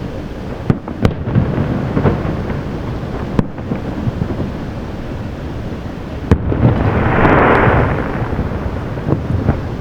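Aerial fireworks display: a continuous rumble of shells bursting and echoing, with sharp bangs twice about a second in, once after three seconds and again after six, followed by a dense crackling rush lasting about a second and a half.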